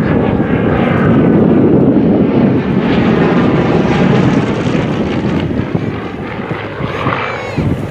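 Aircraft flying past. Its engine noise swells to its loudest a second or two in, then gradually fades away.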